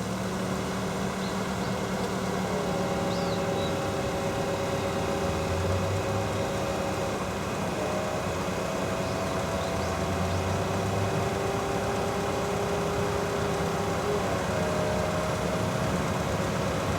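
Daihatsu Copen's engine running under a steady wash of road noise. Its note shifts pitch a few times along the way.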